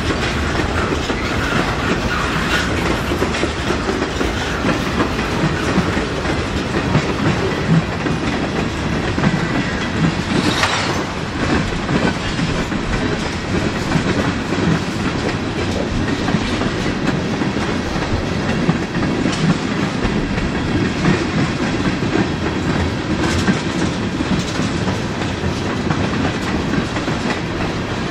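Freight train rolling past at speed: a steady rumble of boxcars and tank cars, with the steel wheels clicking over the rail joints.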